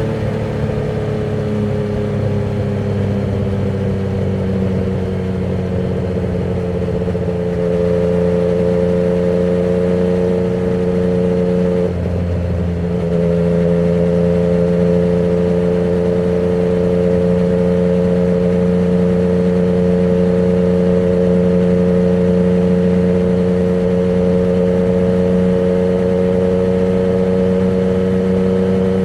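Yamaha MT-09's three-cylinder engine breathing through a Termignoni exhaust with the dB killer removed, ridden at a fairly steady speed. The engine note sinks slowly at first, picks up about eight seconds in, breaks briefly about twelve seconds in, then holds steady.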